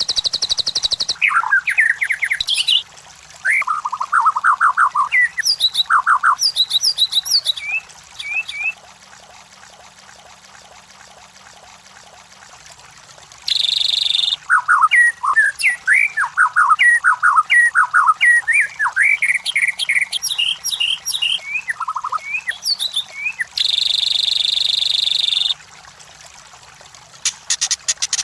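White-rumped shama (murai batu) singing: varied phrases of quick whistled notes and rapid trills, broken by a few longer harsh, buzzy notes. The song pauses for about five seconds near the middle.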